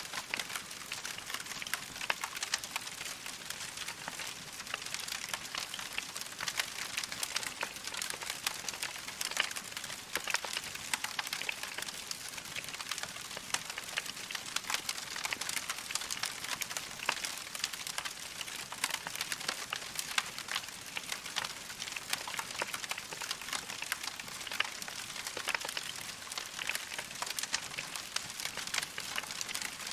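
Wood fire crackling in a fireplace: a steady hiss of many small pops and snaps, with a few sharper pops here and there.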